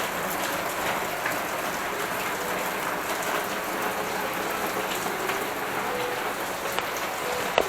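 Steady rain falling, with one sharp click near the end.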